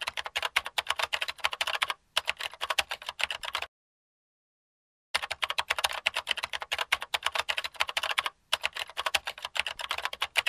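Rapid typing on a keyboard: dense runs of key clicks, broken by a pause of about a second and a half in the middle and two brief breaks.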